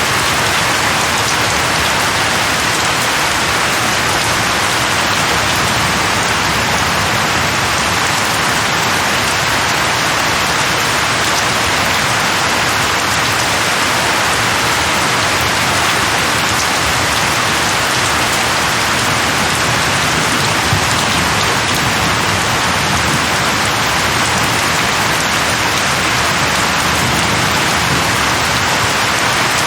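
Steady, dense rain falling on leaves, an even hiss with no breaks or thunder.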